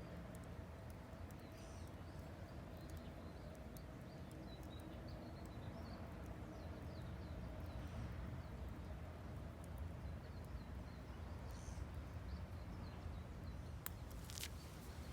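Small wood fire burning in a Vargo Hexagon titanium wood stove, with faint scattered crackles over a low steady outdoor rumble and faint bird chirps; a few sharper clicks or knocks near the end.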